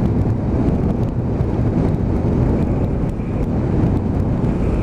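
Motorcycle running steadily at road speed, its engine hum mixed with steady wind buffeting on the rider's microphone.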